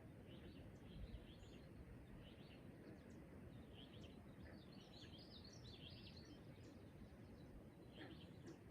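Faint birds chirping: many short, high calls scattered throughout, thickest around the middle, over a steady low rumble.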